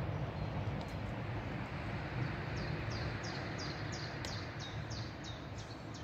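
A bird singing a run of about ten repeated high notes, each sliding downward, about three a second, starting a couple of seconds in. Underneath is a steady low background rumble.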